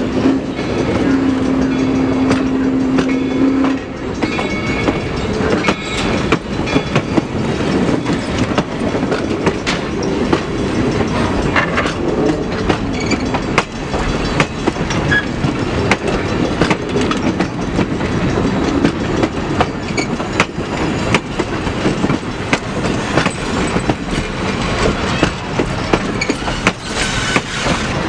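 A train rolling past, its wheels clicking steadily over rail joints above a continuous rumble. A held whistle note, broken once, sounds over the start and stops about four seconds in.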